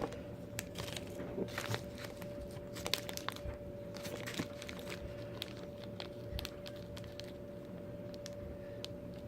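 Small carburetor rebuild-kit parts being handled: scattered light clicks and rustles over a faint steady hum.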